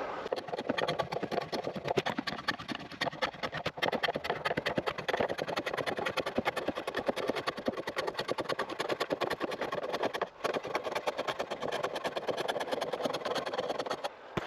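Wood being shaved by hand on a shave horse: a continuous run of quick rasping strokes, cut off suddenly at the end.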